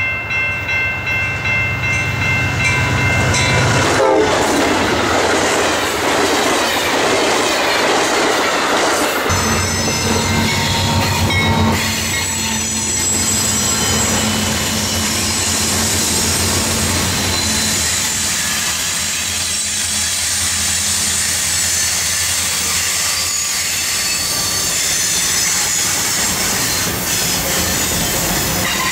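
Freight train passing close by. A diesel locomotive horn sounds a steady chord for the first four seconds, then the diesel locomotives go by with their engines running. Freight cars follow, their wheels clacking over the rail joints and squealing on the curve.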